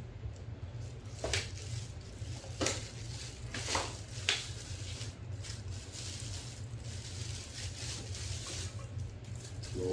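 Rustling and crinkling as a vacuum cleaner's dust bag and its packaging are handled: several short swishes in the first half, softer after. A steady low hum runs underneath.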